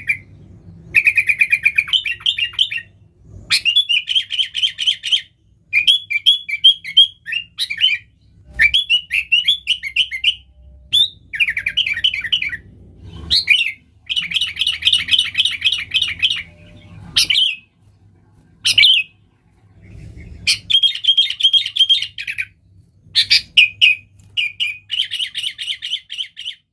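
Sooty-headed bulbul (kutilang) singing hard: one fast, chattering phrase after another, each a second or two long, with short silent gaps between them.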